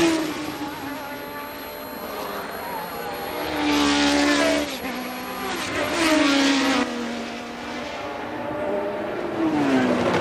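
1982 Formula One cars racing past, their engine notes swelling and then dropping in pitch as each goes by, about four and six seconds in, with another car's engine rising near the end.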